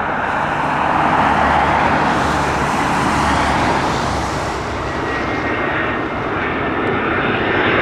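Jet airliner's engines running as the aircraft passes, a loud steady rush that swells about three seconds in and then eases a little.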